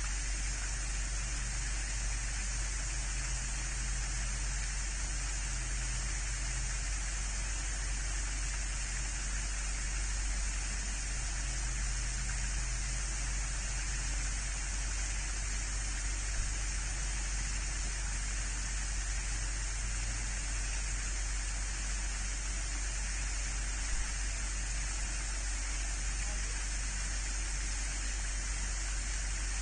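Steady hiss with a low hum underneath, the constant background noise of an outdoor livestream camera's microphone, with one faint tap late on; no bird calls stand out.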